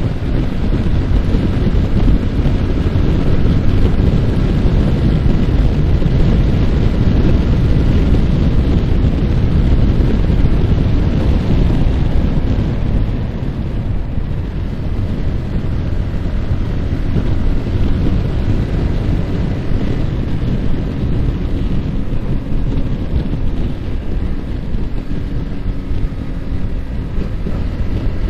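Heavy wind rush over the microphone of a moving Yamaha R15 motorcycle, with its single-cylinder engine running underneath. The wind eases a little about halfway through, and faint engine tones come through near the end.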